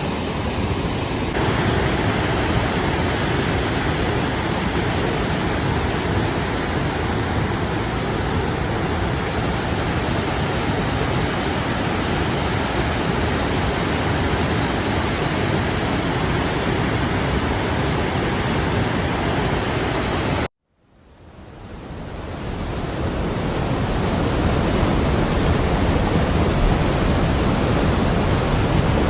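Steady, loud rush of flowing water. Its tone shifts slightly about a second in; about twenty seconds in it cuts out abruptly and fades back up over a few seconds.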